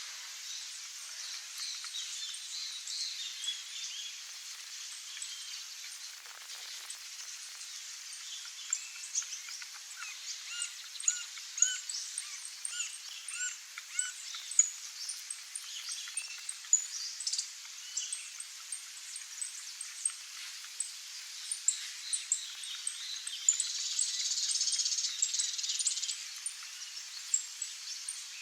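Wild birds chirping, many short calls overlapping over a steady high hiss; the calls grow busier about a third of the way in and the hiss swells for a few seconds near the end.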